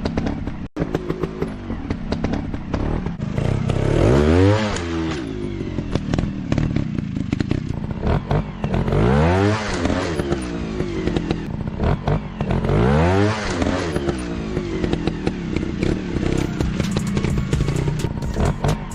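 Motorcycle engine running and revving up and down three times, each rev rising and falling in pitch, amid clattering and scraping.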